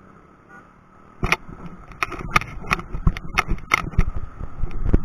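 Bicycle rattling over a rough road: irregular knocks and clatter, several a second, starting about a second in over a low rumble.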